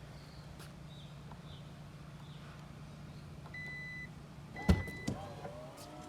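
A 2022 Genesis GV80's electronics at work: a steady low hum, two short electronic chimes, a sharp click, then an electric motor starting up with a whine that rises in pitch and then holds steady.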